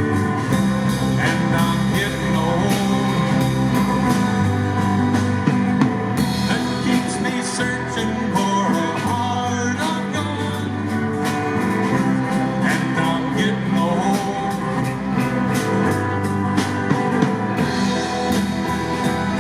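Live band playing music, with a steady beat of drum hits under held bass notes and guitar.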